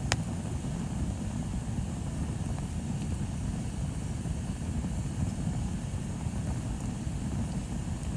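Bonfire burning with a steady low rumble, and one sharp crackle of burning wood just after the start.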